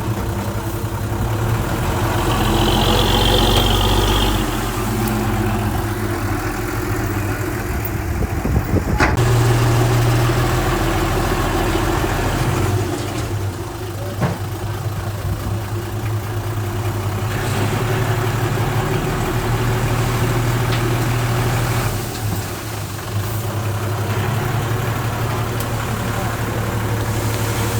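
Diesel engine of heavy earthmoving equipment running, its pitch and load shifting every few seconds, with a couple of brief knocks.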